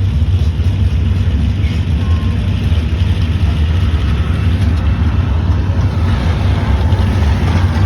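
Heavy engine of a pulling vehicle running loud and steady, a deep rumble with a faint whine that drifts in pitch near the end.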